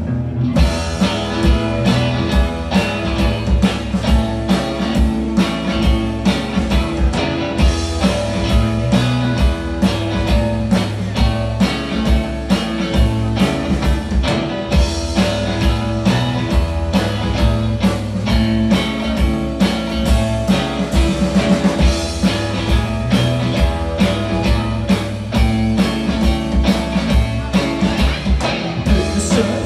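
A rock band playing a blues-rock song live: guitar, bass and drums with a steady driving beat, coming in loud right at the start.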